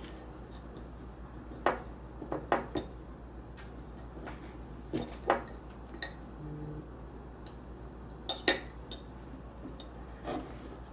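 Dishes and cutlery clinking: a scatter of short, sharp clinks and knocks, some in quick pairs, over a low steady hum.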